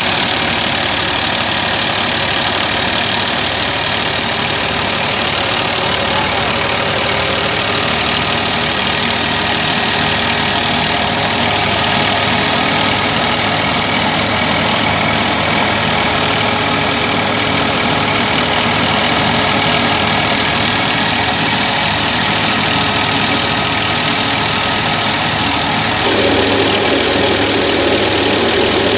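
Massey Ferguson 240 tractor's diesel engine running steadily under heavy load as it drives a threshing machine, the thresher's churning noise mixed in. About 26 seconds in, the sound grows a little louder and fuller.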